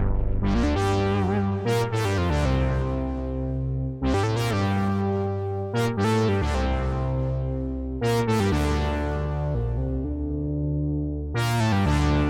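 Moog Messenger monophonic analog synthesizer playing a bass-heavy line. About every two seconds a new note starts bright and its upper harmonics die away as the filter closes.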